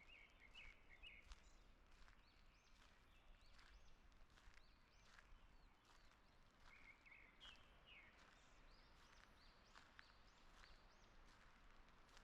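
Faint woodland birds calling: short high notes repeat throughout, with a quick chattering run about a second in and another around seven seconds in. Footsteps on a forest path tick softly underneath.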